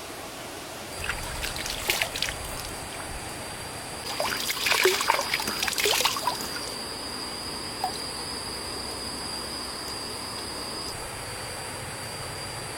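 Stream water trickling, with two bouts of splashing and sloshing about a second and about four seconds in.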